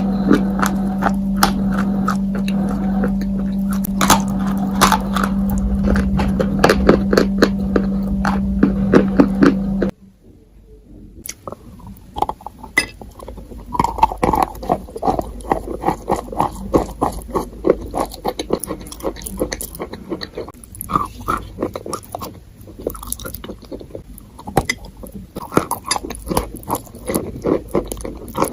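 Close-miked crunching and crackling, a dense run of short clicks, over a steady low hum. About ten seconds in the sound cuts off abruptly, then the crunching resumes more softly without the hum.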